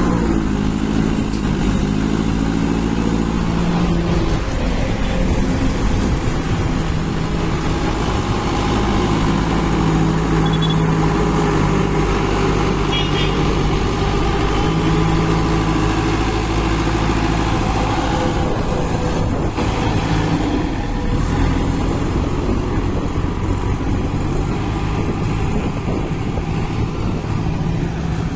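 Kirloskar diesel engine of a JCB 2DX backhoe loader running, its engine speed dropping over the first few seconds and changing again about two-thirds of the way through.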